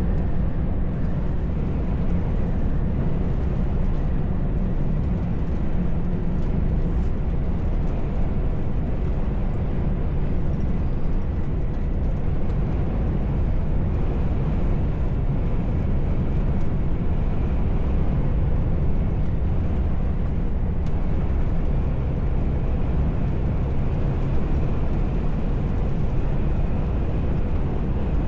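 Heavy truck on the road, heard from inside the cab: a steady low drone of engine and road noise, unchanging throughout.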